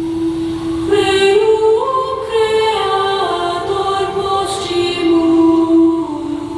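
A cappella vocal ensemble singing sustained chords with no instruments. One voice holds a steady low note throughout. Other voices enter about a second in, climb in steps, then step back down.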